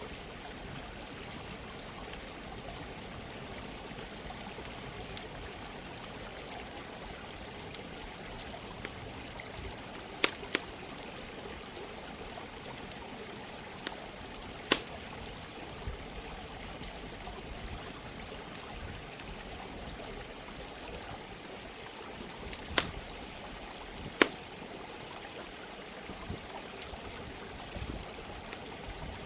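Running water flowing steadily, mixed with a crackling campfire: many small ticks and a few sharp loud pops, two about ten seconds in, one near fifteen seconds and two more around twenty-three to twenty-four seconds.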